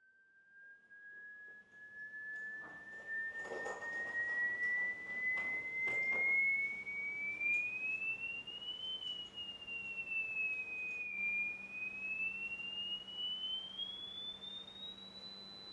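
A single pure sine test tone gliding slowly upward in pitch, dipping briefly and rising again higher near the end, as used in loudspeaker testing. A few knocks sound between about three and six seconds in, over a faint steady hum.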